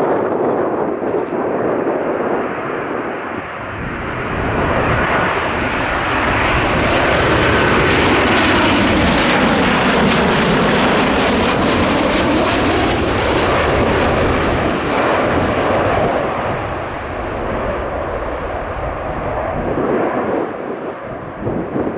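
Aircraft engines passing close by, building to their loudest about halfway through with a sweeping whoosh, then fading.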